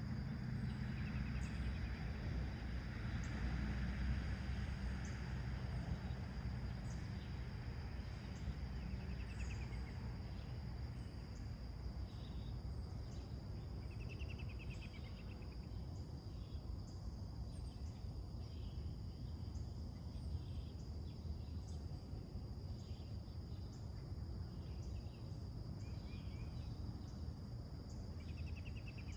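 Summer morning outdoor chorus: a steady high drone of crickets with short bird chirps scattered throughout, over a low background rumble that eases after the first few seconds.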